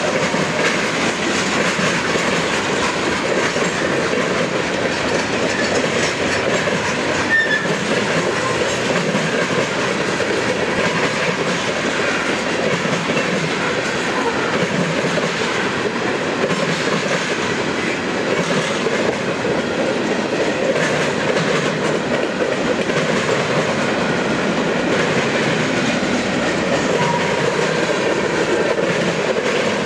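A manifest freight train's cars rolling past at steady speed: a continuous, even rumble and rattle of steel wheels on the rails.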